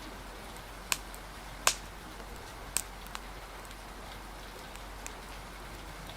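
Steady hiss of rain with a handful of sharp pops from a crackling wood fire, the loudest one a little under two seconds in.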